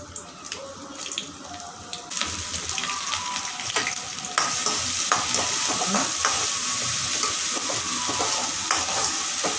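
Tempering sizzling in hot oil in a metal kadai: dried red chillies, mustard seeds and green gram dal frying. The sizzle grows louder about two seconds in and again about four seconds in as chopped ginger goes in, with scattered clicks and a metal spoon stirring against the pan.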